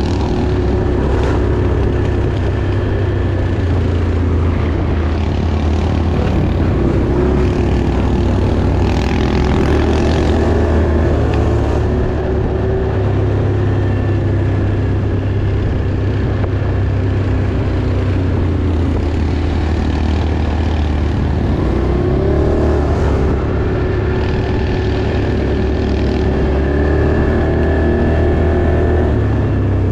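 Off-road vehicle engine running steadily under way: a continuous low drone with small shifts in pitch.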